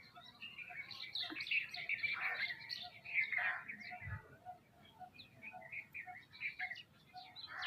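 A group of small birds, sparrows and mynas among them, chirping and calling busily over one another. Underneath runs a short repeated lower note, about twice a second. There is a soft thud about four seconds in.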